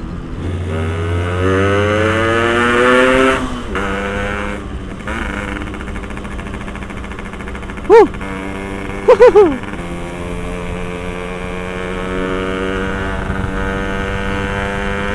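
Yamaha RX Special two-stroke single-cylinder motorcycle engine revving up through a gear, dropping as it shifts, then pulling steadily with the revs slowly climbing. About halfway through, a very loud short sound falling in pitch cuts in, followed a second later by two more in quick succession.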